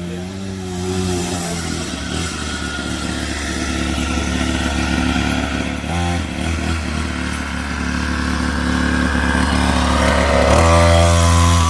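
Small kids' pit bike engine running steadily, its pitch shifting a few times with the throttle, growing louder toward the end.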